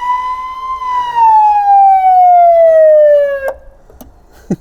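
Loud electronic police siren sounding one wail: the tone peaks within the first second, then falls slowly. It cuts off sharply with a click about three and a half seconds in, and a second click follows.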